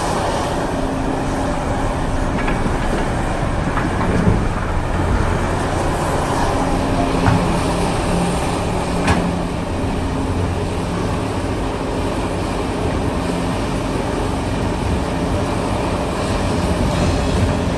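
Large diesel excavator running steadily under load, its engine hum rising and falling slightly as it works, with a few sharp metallic knocks about four, seven and nine seconds in.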